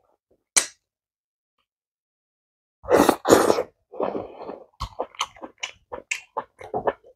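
Close-miked eating sounds of amala and egusi soup eaten by hand: wet chewing and lip smacks. A sharp smack comes about half a second in, two louder mouth noises around three seconds, then a quick run of short smacks.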